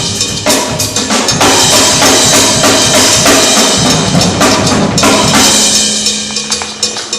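Loud percussion music led by a drum kit, with a dense high wash like cymbals through the middle, easing off near the end.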